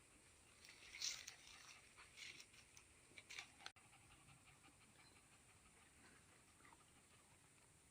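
A pet dog panting faintly, in short irregular breaths during the first half.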